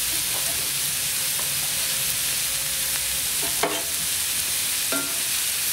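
Red onions and garlic frying in bacon fat in a cast-iron skillet: a steady sizzle, with a couple of brief crackles in the second half.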